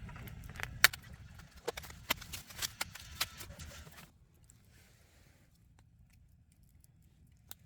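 A series of sharp clicks and knocks over a low rumble for about four seconds, then a sudden drop to faint background, with one more click near the end.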